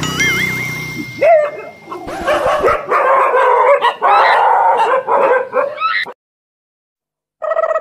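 Several stray dogs barking, yelping and snarling in an overlapping commotion as they react to a stuffed toy tiger, cut off suddenly about six seconds in. It opens with a short warbling tone, and a steady held tone comes in near the end.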